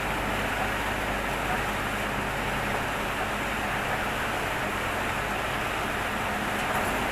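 Heavy storm rain pouring steadily, an even unbroken rushing hiss.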